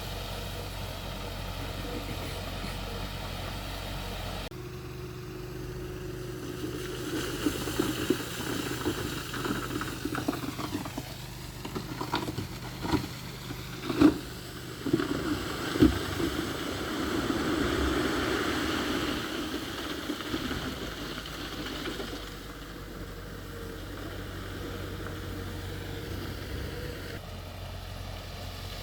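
Diesel engines of heavy earthmoving machinery running, with a busier stretch in the middle where several sharp metallic clanks ring out, the loudest two about 14 and 16 seconds in.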